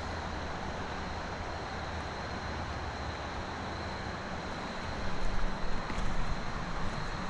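Steady outdoor background noise, with wind buffeting the microphone in gusts from about five seconds in.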